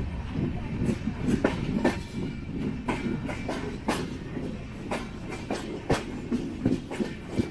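Passenger train running along the track: a steady low rumble with irregular sharp clacks of the wheels over rail joints.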